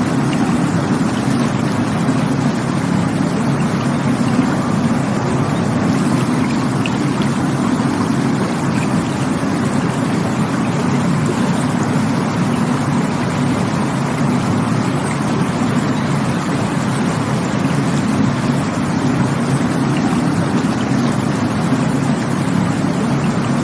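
Rushing water: a steady, unbroken rush with a deep low rumble underneath, unchanging throughout.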